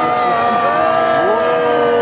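Crowd cheering, several voices holding long drawn-out shouts.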